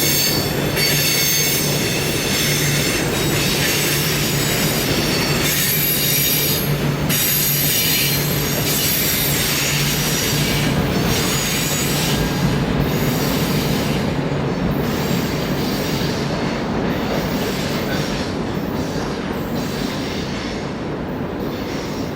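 A train rolling past, its steel wheels squealing against the rails over a continuous rumble and a steady low hum. The high squeal thins out about halfway through and the sound eases slightly toward the end.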